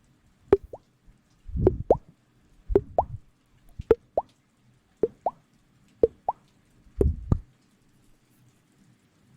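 Repeated wet plopping pops close to the microphone, coming in pairs about once a second. Each pop rises quickly in pitch, and softer low thuds come with some of them.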